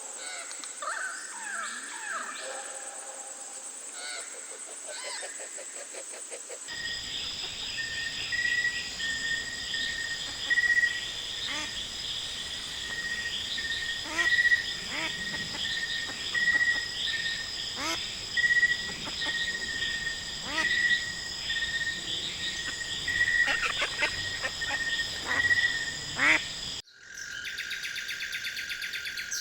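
Tropical rainforest ambience: a steady high insect drone under scattered bird calls, with a short chirp repeating about once a second through most of it. The background changes abruptly twice, about seven seconds in and near the end.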